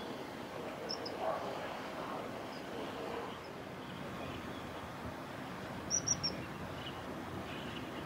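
Short, high bird calls over a steady outdoor background hiss: one faint chirp about a second in, then a quick run of three or four sharper chirps near six seconds, the loudest sound here.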